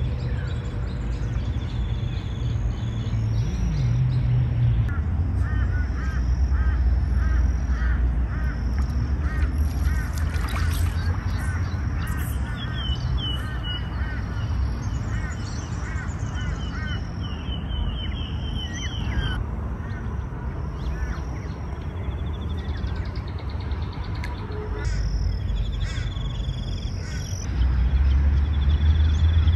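Birds calling over a steady low rumble: a run of short repeated calls, about two a second, through the middle, then higher thin calls. The rumble grows louder near the end.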